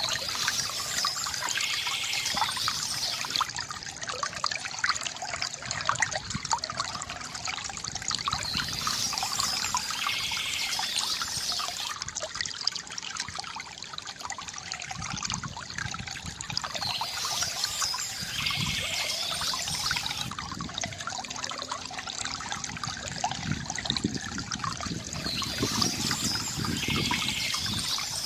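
Water trickling and gurgling from a bamboo fountain, running steadily, with a brief higher sound coming back about every eight seconds.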